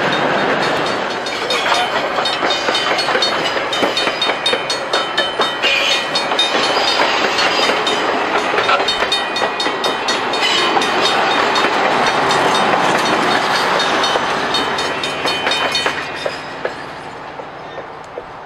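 Passenger train cars rolling past close by, their steel wheels clicking and clattering over the rail joints and the crossing. The sound fades away near the end as the last car clears.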